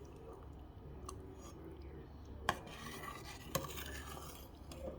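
Kitchen utensils working in dishes: stirring and scraping, with two sharp clinks about two and a half and three and a half seconds in, over a low steady hum.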